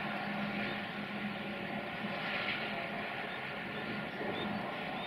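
Distant train running on the line across the valley: a steady rumble with a low hum, and faint short high chirps in the second half.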